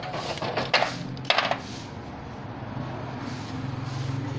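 Two short bursts of metallic jingling within the first second and a half, then the low, steady hum of the Suzuki Alto's engine running, growing slightly louder near the end.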